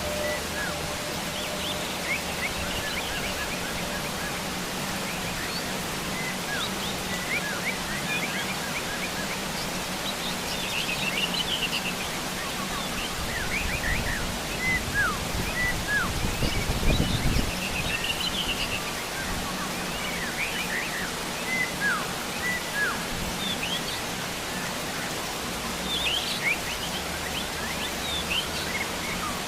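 Heavy rain falling steadily, with wild birds chirping and calling throughout in many short, quick notes. A low rumble swells up about halfway through and fades again.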